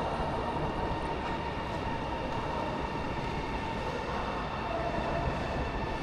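A train at a station, giving a steady, unbroken running hum with a faint high tone over it.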